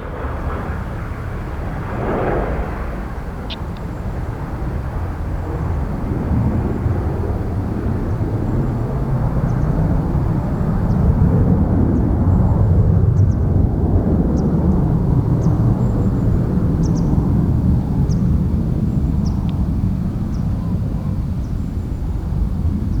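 Jet airliner's engines rumbling as it moves on the airfield, a deep roar that builds to its loudest about halfway through and then eases slightly.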